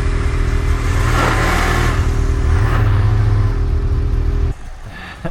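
Snowmobile engine running under throttle, surging about a second in, then cutting off abruptly near the end.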